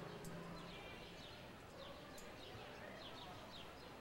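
Quiet outdoor background with a small bird chirping over and over: short, high, falling chirps, a few each second.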